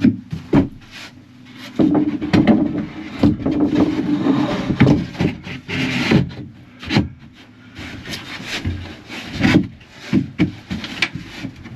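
Wooden panels and boards being handled and fitted: irregular knocks and scraping of wood against wood.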